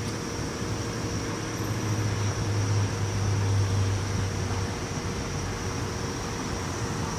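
Low engine rumble of a motor vehicle, swelling for a couple of seconds and then fading, over steady street noise.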